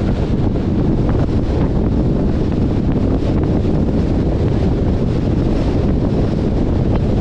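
Steady, loud wind buffeting the microphone of a camera mounted on a moving car.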